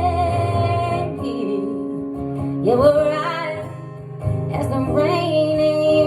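A woman singing long, sliding held notes over guitar accompaniment.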